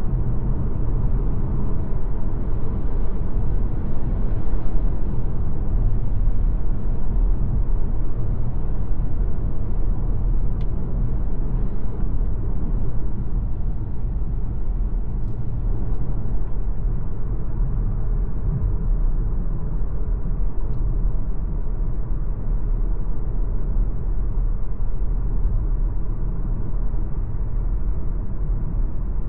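Steady low rumble of an MG ZS Hybrid+ on the move: tyre and drivetrain noise with no rising or falling revs, and a few faint clicks.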